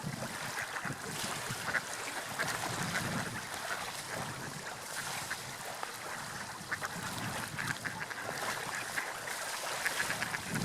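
Water lapping and splashing in many small irregular splashes over a steady wash.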